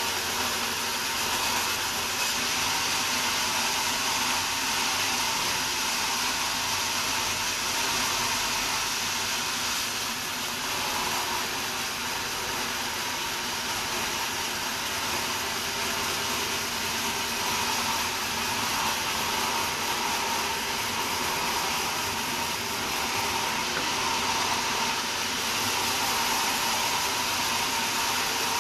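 Sawmill saw running steadily through a large wadang log, a continuous high whirring hiss with a faint steady whine.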